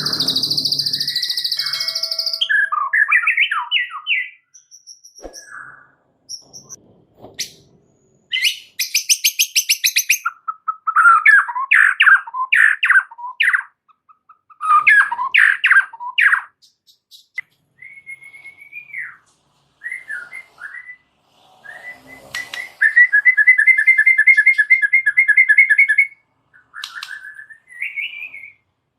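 White-rumped shama singing a loud, varied song in separate phrases with short pauses: high buzzy notes, fast trills, runs of quick repeated notes, a brief whistle, and a long chattering trill near the end.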